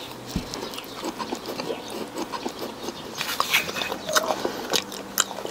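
Close-miked eating: a person chewing, with irregular small clicks, crackles and wet mouth noises.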